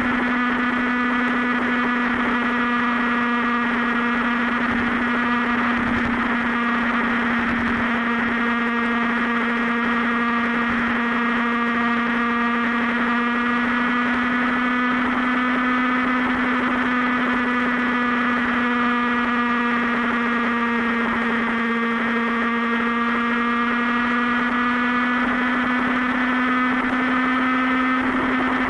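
Motorcycle engine running at a steady cruising speed, one held drone whose pitch dips slightly and comes back up.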